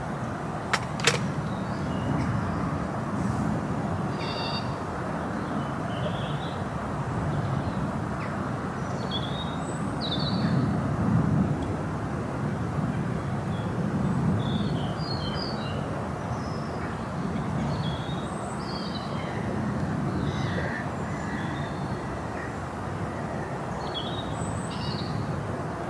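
Small birds chirping and twittering on and off over a steady low rumble that swells and fades, with two sharp clicks about a second in.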